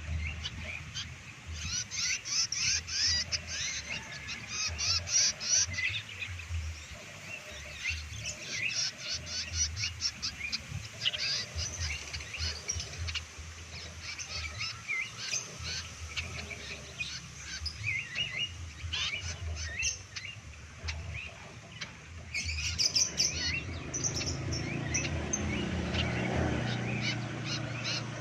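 Young pied triller (kapasan kemiri) chirping: a dense run of rapid high chirps and short call notes, with a low rumble coming up in the last few seconds.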